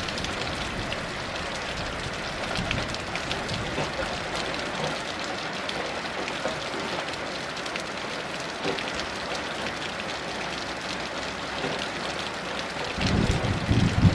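Heavy rain falling steadily, with scattered drop ticks over a dense hiss. About a second before the end a low rumble of thunder rises.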